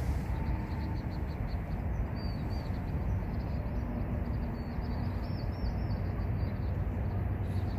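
Small birds chirping in short, repeated high notes over a steady low rumble.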